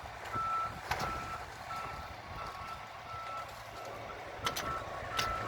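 Cement mixer truck's reverse alarm beeping steadily, about one and a half beeps a second, as the truck backs away, with wind rumbling on the microphone.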